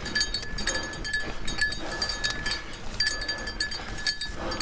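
Mountain bike being ridden up a climb: irregular metallic clinking and jingling with a ringing tone, along with the rider's heavy breathing.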